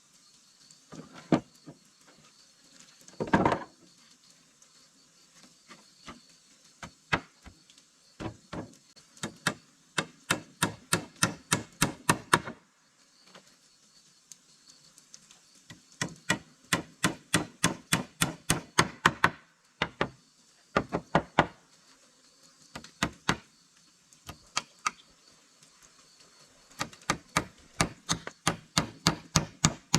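Runs of sharp knocks of a tool striking wood, about three to four blows a second, in bursts of a few seconds with pauses between. One heavier thud comes about three seconds in.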